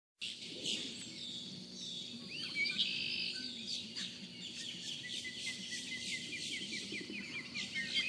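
Several birds chirping and trilling together, a dense layer of quick high calls with a longer trill in the second half and a faint low hum underneath. It cuts in abruptly at the start.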